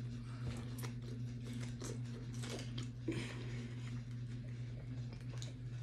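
Faint chewing and mouth sounds of a person eating a piece of bok choy, a scatter of soft clicks and smacks over a steady low hum.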